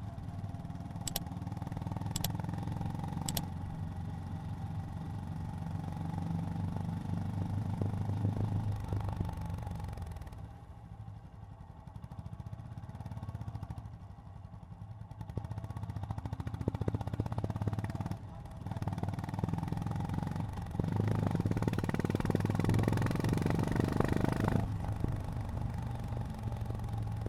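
Honda GB350's air-cooled single-cylinder engine running under way. It eases off and goes quieter around the middle, then pulls harder and louder again near the end. Three sharp clicks come in the first few seconds.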